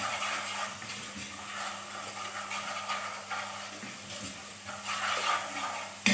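Spice masala sizzling in a steel pot while a wooden spoon stirs and scrapes through it, in irregular strokes over a steady hiss.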